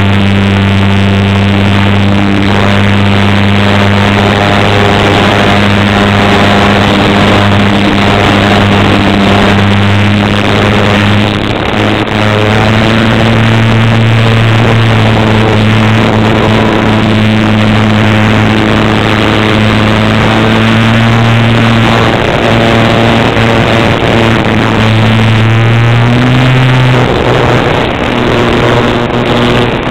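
Cessna light aircraft's piston engine and propeller droning steadily in flight. Near the end the pitch steps up briefly and then drops back.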